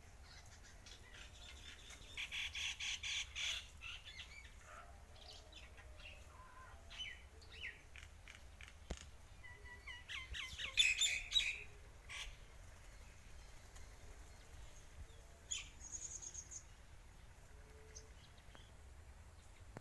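Small birds chirping in quick, chattering bursts: one run about two seconds in, a louder one around ten to eleven seconds in, and a brief high call near sixteen seconds.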